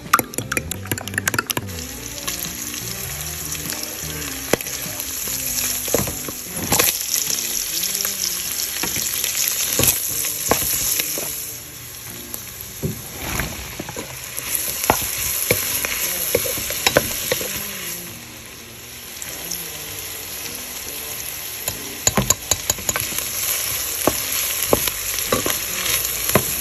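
Sliced bitter melon and meat sizzling as they fry in a pan, with a spatula stirring and knocking against the pan now and then. In the first two seconds, rapid clicking as eggs are beaten in a glass bowl.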